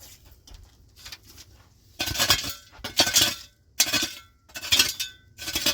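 Repeated clinking, scraping strokes of hard objects, about one a second after a quieter start, each with a brief ringing tone.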